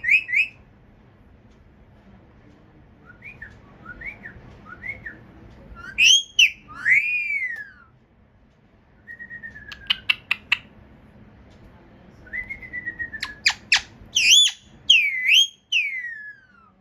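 A parrot whistling: a series of pitched whistles that swoop up and down, with short chirps, loud swooping notes, and a quick run of clicks about ten seconds in.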